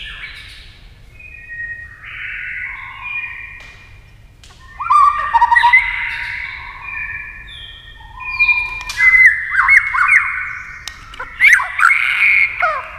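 White-rumped shama singing a varied run of whistled phrases mixed with harsh, squawky notes, getting louder about five seconds in and turning into quick sharp notes in the second half.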